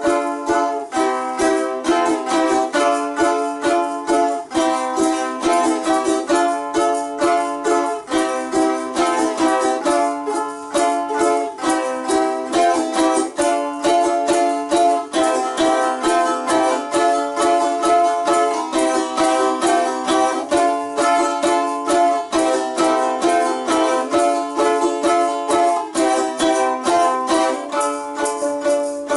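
Balalaika playing: fast strummed chords and runs of plucked notes in a steady rhythm.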